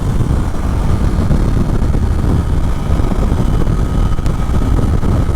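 Steady on-board riding noise from a 2024 Triumph Daytona 660: wind rush over the rider's helmet and the hum of its 660 cc inline-three engine at a steady cruise, with most of the weight in the low rumble.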